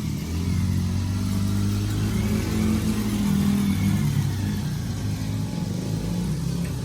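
Small engine of a child's off-road vehicle running as it is ridden on a dirt track, its pitch rising and falling with the throttle.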